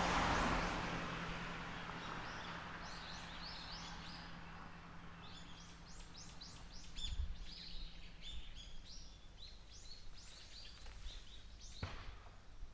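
White-eye twittering: rapid runs of short, high chirps and trills that begin a couple of seconds in and continue almost to the end. A broad rushing noise fades out at the start, and there is a sharp click near the end.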